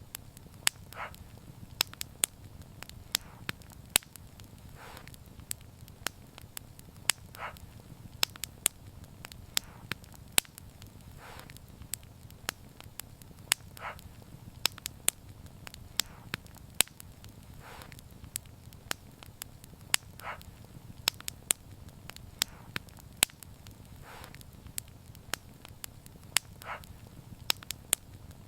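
Wood fire burning and crackling, with sharp irregular pops over a steady low rumble of flame and a soft short hiss every few seconds.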